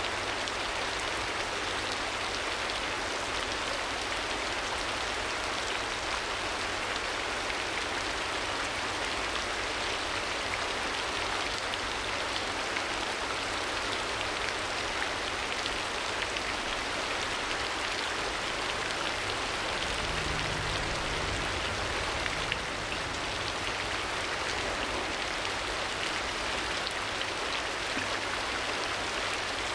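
Steady rain falling, an even hiss of drops with no pauses. About two-thirds of the way through, a brief low rumble rises under it.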